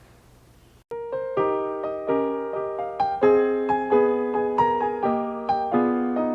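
Piano starting up about a second in, after a hush: struck chords, a new one every half second or so, each dying away, likely the opening of the next song's accompaniment.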